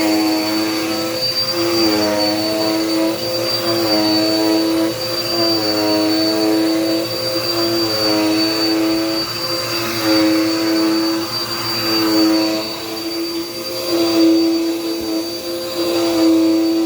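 Dirt Devil Power Max vacuum cleaner running, with a steady motor hum and a thin high whine. The pitch dips and recovers slightly every second or so as the vacuum works the floor.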